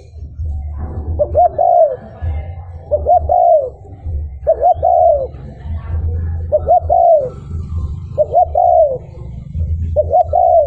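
Spotted dove cooing. It repeats a phrase of two short notes and a longer arched note about six times, one every second and a half to two seconds, over a steady low rumble.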